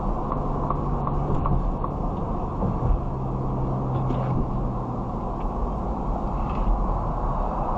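Semi-truck dashcam audio: a steady rumble of engine and road noise while the truck drives, with a low hum that is strongest about three to five seconds in.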